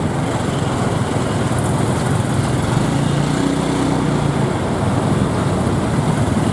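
Motorcycle taxi's engine running steadily while riding in traffic, heard from the pillion seat, with a constant rush of wind and road noise over it.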